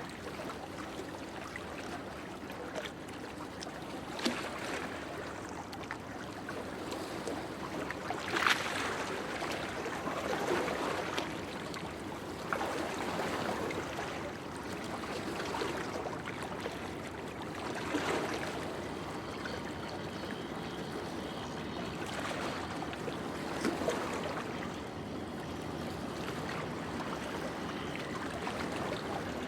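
Sea surf washing onto the shore, a continuous rush of water with a wave surging up every few seconds.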